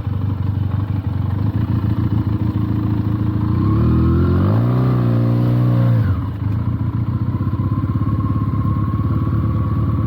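Benelli TNT 300 parallel-twin engine running at low revs, rising in pitch from about three and a half seconds in, held higher for a couple of seconds as the throttle is opened, then dropping back to a low steady pull.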